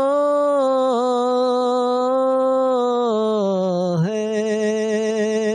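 A single voice singing a naat, drawing out one long held note that sags slightly in pitch, then moving onto a new held note about four seconds in.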